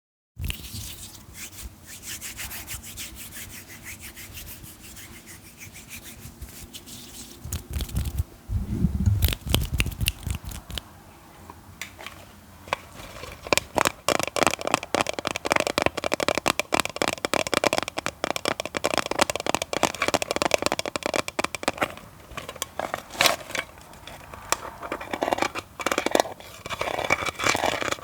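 Close-miked ASMR triggers: objects being scratched and tapped. A steady fine scratching comes first, then a few low thumps and clicks about eight to ten seconds in, then a faster, denser run of taps and scratches through the rest.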